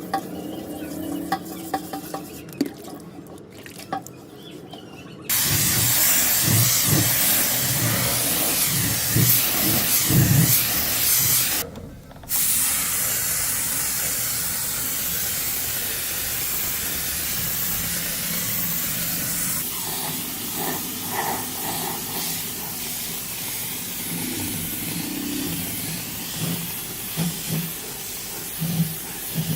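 Loud steady hiss of a spraying tool, starting about five seconds in after some light clicking, breaking off briefly around twelve seconds, then running on.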